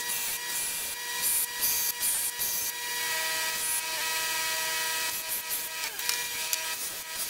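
Hand-finishing work: repeated abrasive rubbing strokes, irregular at first and then more continuous from about three seconds in, over a faint steady whine.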